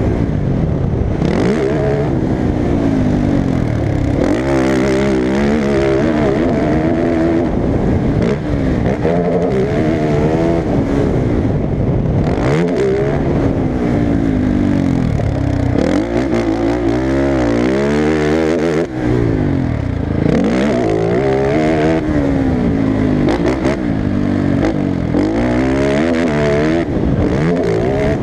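Off-road racing engine at a motocross track, revving up and dropping back again and again as it accelerates, shifts and slows for the course. Loud.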